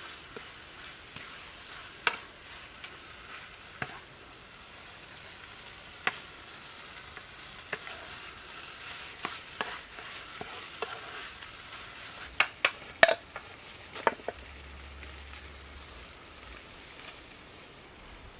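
Food sizzling as it fries in a pan, stirred with a utensil that clicks and scrapes against the pan now and then. There is a run of louder clacks about two-thirds of the way through.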